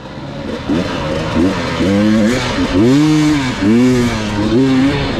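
Dirt bike engine revving up and down over and over, the pitch rising and falling with each throttle blip.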